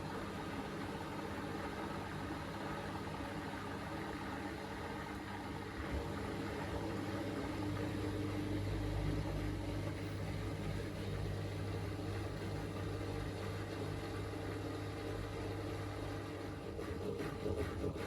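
Miele W3985 front-loading washing machine draining and spinning its drum at low speed in a short spin burst after the final rinse: a steady motor hum that deepens and grows stronger from about six seconds in until about sixteen seconds. Near the end it drops back and a regular rhythmic thumping starts as the drum turns more slowly.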